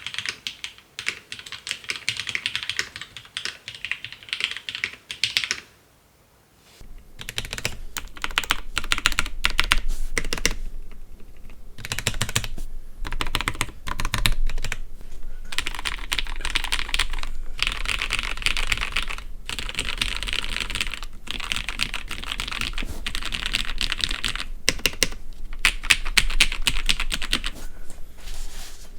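Rapid typing on a CoolerMaster Quickfire TK mechanical keyboard with broken-in Cherry MX Red linear switches, stock keycaps and stabilizers: a dense run of key clicks. After a brief pause about six seconds in, the typing resumes through a different microphone, with a low hum under the clicks.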